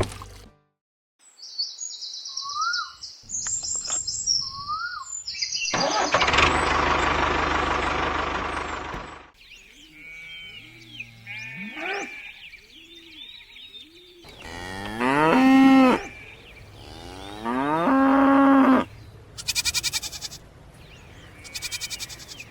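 Cows mooing several times, drawn-out pitched calls loudest about fifteen and eighteen seconds in. Earlier there is a loud burst of noise lasting about three seconds, and short high chirps before that.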